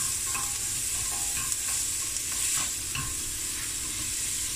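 Diced carrot, onion, garlic and jalapeño frying on a medium heat in a stainless steel pot, with a steady sizzle, stirred with a wooden spoon that scrapes and taps against the pot a few times.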